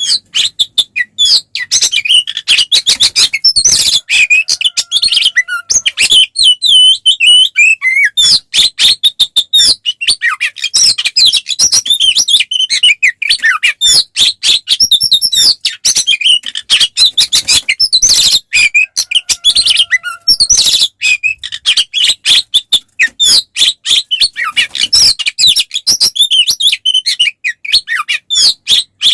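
Oriental magpie-robin (kacer) singing loud and almost without pause in rapid, varied high chirps and whistles, the full aggressive song that keepers call fighting song. About six seconds in it slips briefly into a slower, softer warble before the rapid run resumes.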